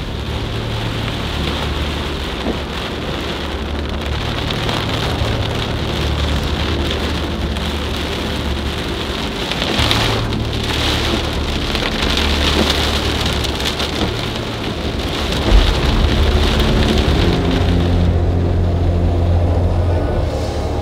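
Heavy storm rain pelting a car's windshield, a dense steady hiss with a low hum underneath. About three-quarters of the way through comes one sudden, loud, low thump like a thunderclap.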